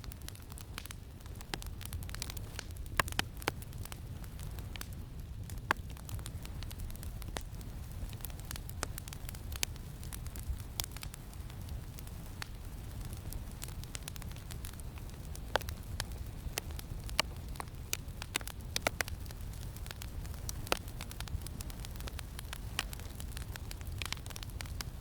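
Campfire crackling, with irregular sharp pops and snaps scattered through, over a steady low rumble of wind.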